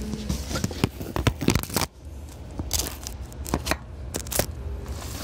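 Low rumble inside a Seibu New 2000 series electric train car, with many irregular sharp clicks and cracks over it. It drops briefly quieter about two seconds in.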